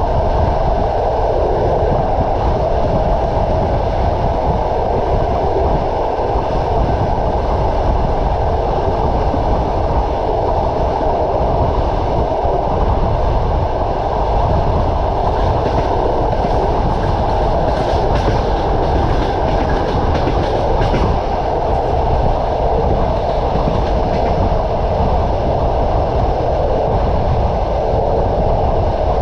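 Train wheels running on the rails: a steady rumble and rolling noise, with a stretch of faint clicking over the rail joints a little past the middle.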